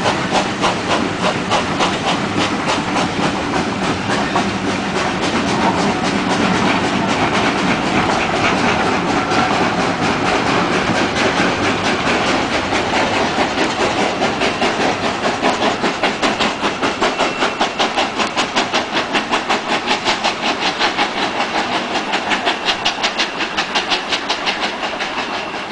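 Steam-hauled passenger train of coaches rolling past, its wheels clicking rhythmically over rail joints. The clatter turns into a more even pulsing rhythm in the second half.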